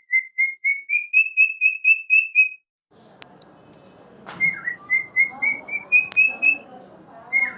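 An Alexandrine parakeet whistling runs of short, clear notes, about four a second, each run creeping up in pitch. There are two runs, with a sudden drop-out between them, after which a faint background hiss comes in.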